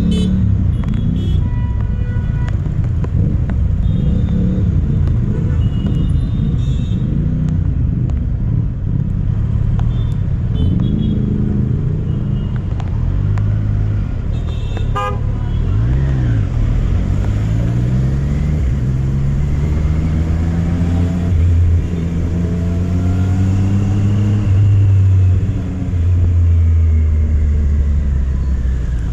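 Triumph Street Triple RS three-cylinder engine running under way with wind rush. In the second half its note climbs again and again, each climb cut short by a drop as it shifts up through the gears.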